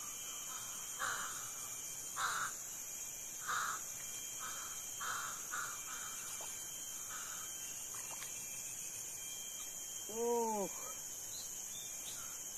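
A bird calling in a series of short calls, about eight over the first seven seconds, over a steady high insect drone; about ten seconds in comes a single short pitched call that rises and falls.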